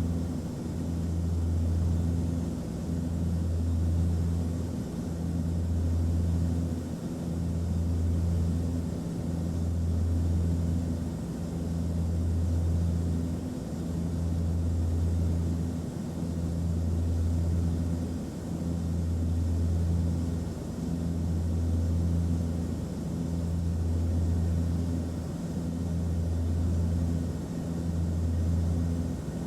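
Airplane cabin noise in flight: a steady rush of engine and airflow noise over a deep low drone that swells and fades about every two seconds.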